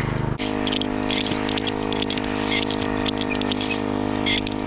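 An engine running steadily, with many sharp scraping clicks over it.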